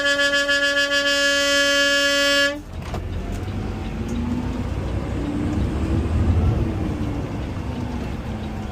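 A vehicle horn held in one long, steady blast that cuts off about two and a half seconds in, followed by the garbage truck's engine running as it moves, with a low rumble that swells and eases.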